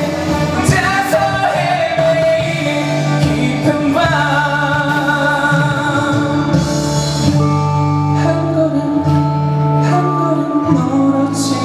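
Live ballad performance: a male singer's voice carries on for the first few seconds over the band's accompaniment, then gives way to steady held chords and bass notes of an instrumental passage.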